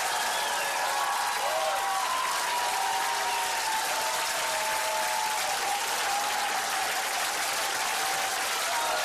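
Studio audience applauding steadily, a dense continuous clapping with a few faint pitched voices or whistles over it.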